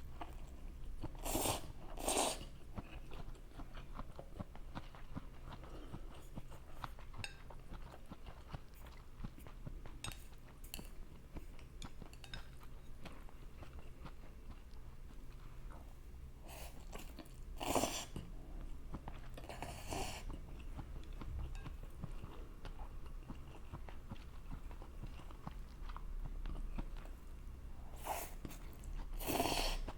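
Close-miked eating of fried rice noodles and wiener sausages: quiet chewing throughout, with louder bites in pairs near the start, around the middle and near the end.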